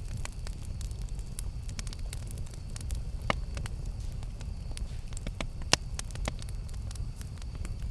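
Wood campfire burning: a steady low rumble of the flames with irregular sharp crackles and pops, two louder pops about three and six seconds in.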